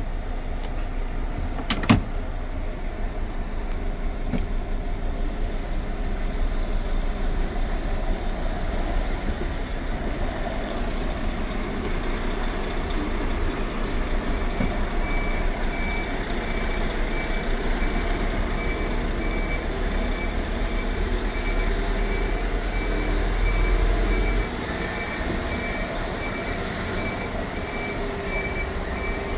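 Scania P400 truck's DC13 13-litre inline-six diesel running steadily, with a single sharp knock about two seconds in. A regular beeping starts about halfway through and keeps going, and the low rumble eases slightly near the end.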